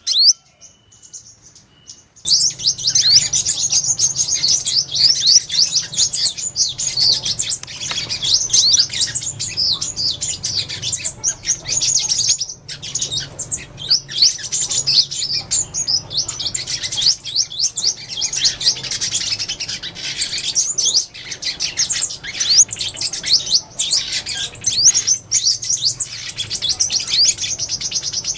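Sunbird singing: a fast, unbroken stream of high, thin chirps and trills that starts about two seconds in.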